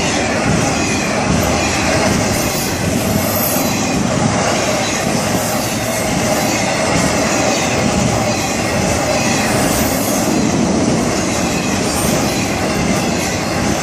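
A Florida East Coast Railway freight train's cars rolling past steadily, their wheels running on the rails in a continuous loud rumble.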